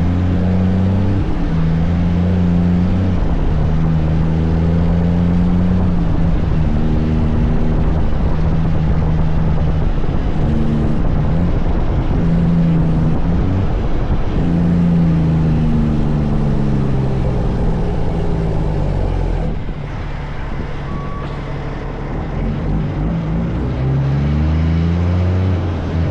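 Kenworth truck's diesel engine pulling through the gears, its pitch climbing and dropping back again and again. About two thirds of the way in it drops lower and quieter, then climbs again near the end.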